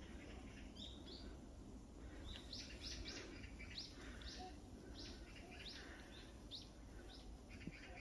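Small birds chirping faintly in the woods: a series of short, high chirps, starting about a second in and coming most thickly in the middle, over a low steady rumble.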